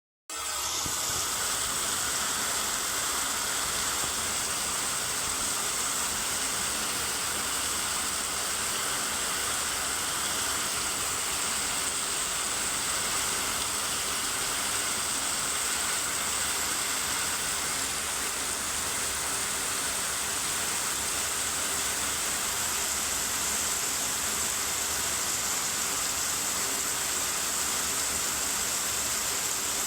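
Steady rain falling in a forest: an even, unbroken hiss that cuts in just after the start.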